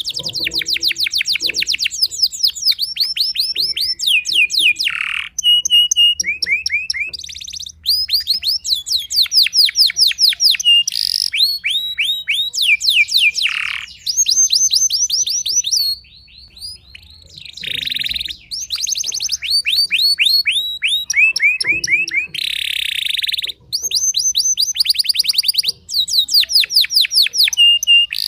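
Domestic canary singing a long song of fast trills: runs of rapidly repeated downward-sweeping notes that change to a new note every second or two, broken by short harsh buzzy phrases.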